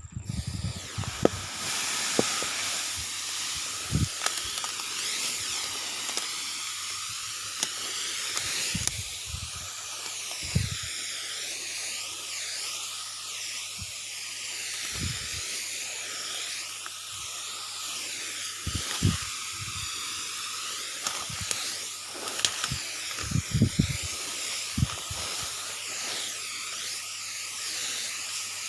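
Steady hiss of liquid spraying from the nozzle of a mini power sprayer driven by a Robotech four-stroke engine, with scattered short low thumps.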